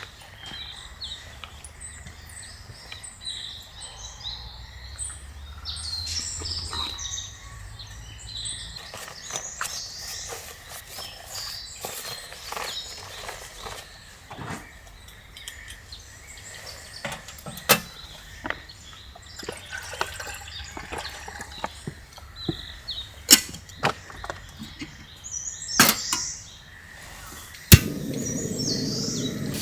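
Scattered sharp clicks and snaps, sparse at first and more frequent in the second half, with birds chirping in the forest.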